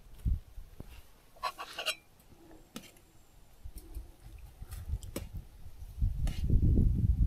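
Camp cookware and utensils being handled: scattered light clicks and clinks, with a short rustle about one and a half seconds in, then low rumbling on the microphone from about six seconds in.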